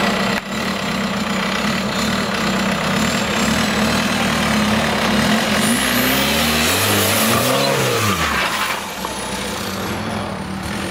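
Off-road competition buggy's engine running under load while crawling an obstacle. The revs rise and fall a couple of times between about six and eight seconds in, then settle back to a steady run.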